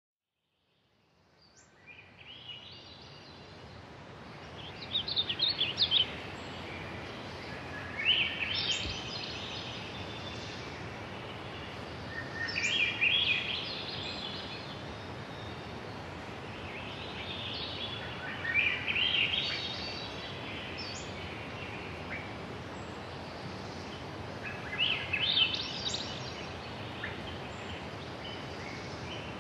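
A songbird singing short phrases every few seconds over a steady background hiss of outdoor noise, fading in at the start.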